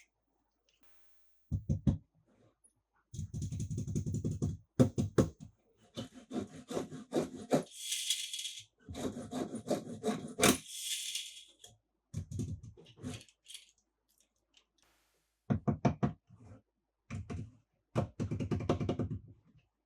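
Small plastic and die-cast toy cars being handled: bursts of rolling rumble and clattering clicks, separate knocks, and a couple of short rustling hisses.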